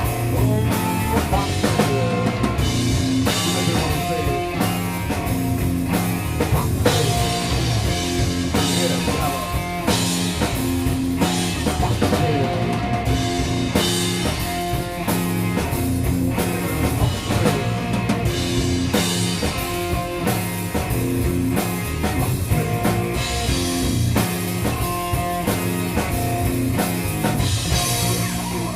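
Rock band playing an instrumental passage without singing: electric guitar over a steadily beaten drum kit.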